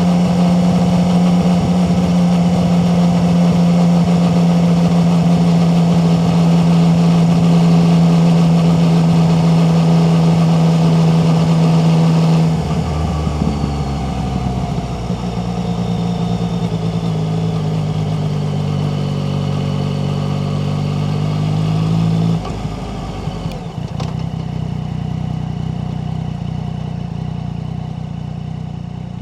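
Yamaha MT-09's inline three-cylinder engine holding steady revs under way, then backing off about twelve seconds in, its note falling as the bike slows. There is another step down in revs a little after twenty seconds, then it runs lower and quieter.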